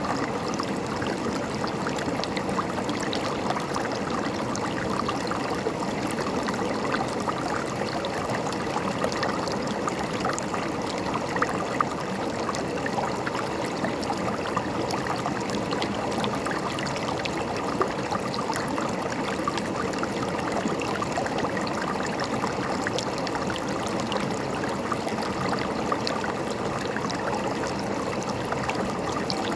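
River water running and gurgling, a steady rush with many small splashes throughout.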